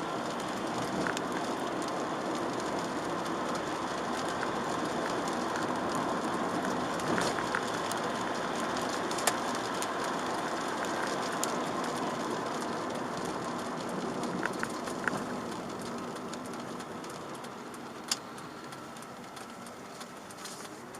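Chevrolet Aveo driving on a rain-wet road, heard from inside the cabin: a steady hiss of tyres and road noise with scattered short clicks, easing off over the last few seconds.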